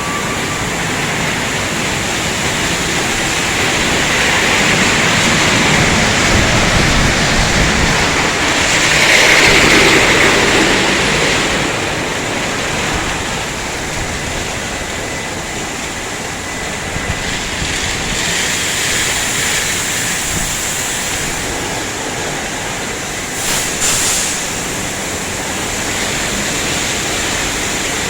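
Automatic car wash tunnel running: a steady rush of water spray and machinery, swelling to its loudest about a third of the way through, with a faint steady whine underneath and a brief knock near the end.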